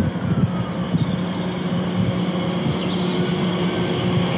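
A train running through the station: a steady low hum over rumble, with a faint high whine and a few brief high chirps in the second half.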